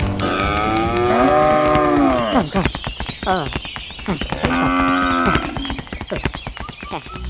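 A cow mooing twice: one long moo that rises and then falls in pitch, then a shorter moo about four and a half seconds in, with a run of sharp clicks behind it.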